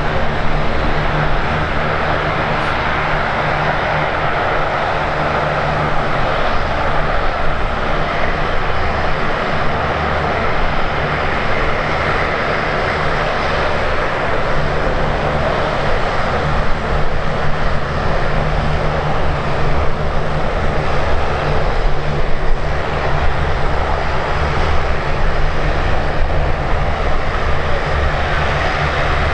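Airliner engines running steadily, a dense rushing noise with a low hum beneath it that holds throughout.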